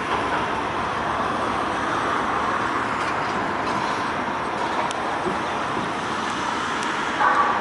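Train rolling past, a steady rail noise with no distinct knocks or horn.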